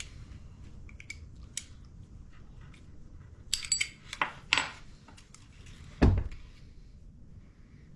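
Metal tools and small parts clinking and being handled, with a burst of clinks near the middle and one heavier thud about six seconds in.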